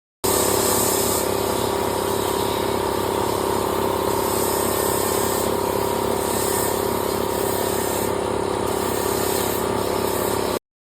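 Electric power tool used in marble carving, running at a steady speed: a constant motor whine over a hiss. It starts abruptly just after the start and cuts off abruptly near the end.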